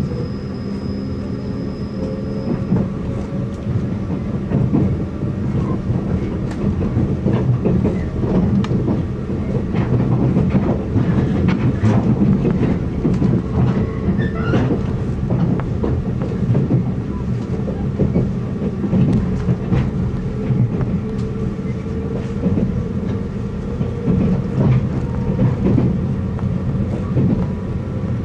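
Electric train running, heard from inside the carriage: wheels clicking irregularly over rail joints above a steady low drone. A whine rises in pitch at the start and again over the last several seconds.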